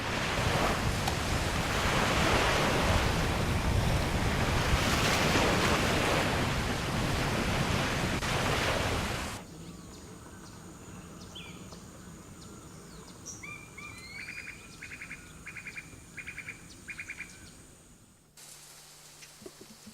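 A loud, steady rushing noise for about nine seconds, then cuts off suddenly. A bird then calls with short slurred notes and a quick series of about five repeated notes.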